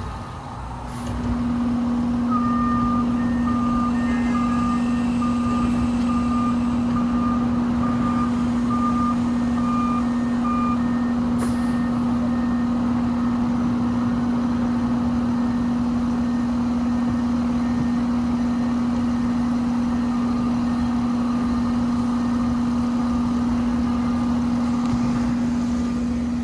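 Outdoor condensing unit of a 2024 Carrier central air conditioner starting up about a second in, then running with a loud steady hum. It does not sound very happy, a strained fan-motor sound the owner puts down to the unit running in cool weather, around 60 degrees.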